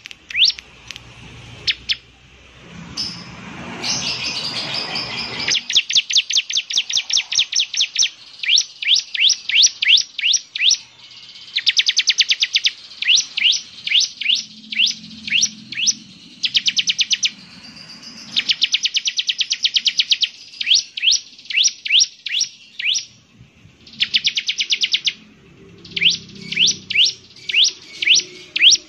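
Bar-winged prinia (ciblek) singing: bouts of rapid, high, quick upward-sweeping notes lasting a few seconds each, with short pauses between bouts. A burst of rustling noise comes about three to five seconds in.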